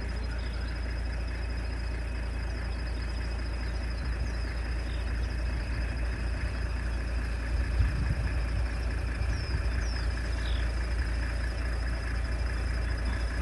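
Steady low rumble of an idling engine, with a continuous thin high trill over it and a few short falling chirps in the second half.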